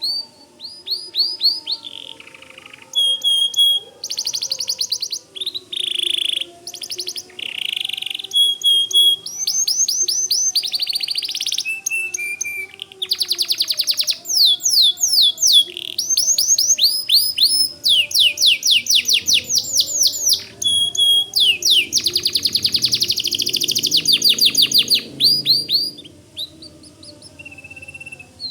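White canary singing a long, continuous song of rapid trills and quick downward-sweeping notes, changing phrase every second or two with only brief pauses.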